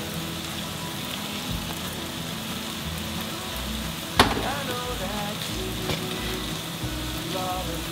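Frozen herring pieces frying in a pan, with a steady sizzle, and one sharp click about halfway through.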